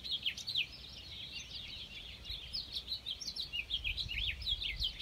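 Small songbirds chirping: many quick, overlapping chirps, each sliding down in pitch, several a second.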